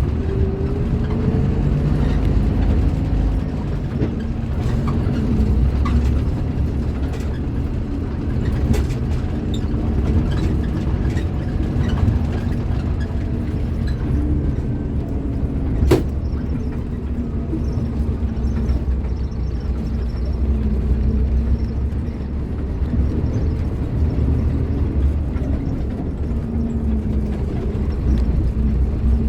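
Scania K310IB bus's diesel engine running under way, its pitch rising and falling as the bus drives, with one sharp knock a little past halfway.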